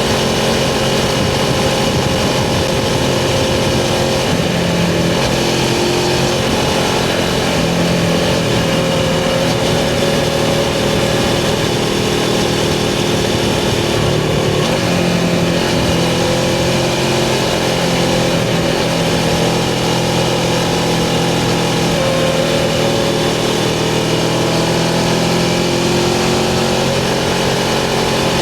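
Suzuki GS500's air-cooled parallel-twin engine running while riding, its pitch rising and falling a little with the throttle, over a steady rush of wind and road noise.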